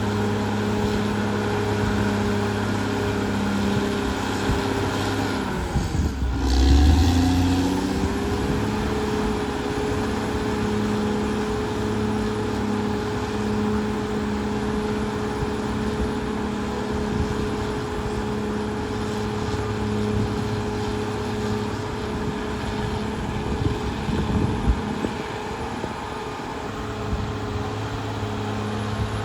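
Caterpillar D6R XL bulldozer's diesel engine running steadily at working revs. About six seconds in the engine note sags sharply with a low thud, then picks back up and runs on steady.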